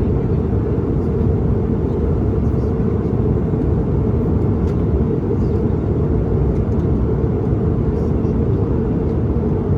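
Steady, deep roar of airliner cabin noise: jet engines and airflow heard from a passenger seat.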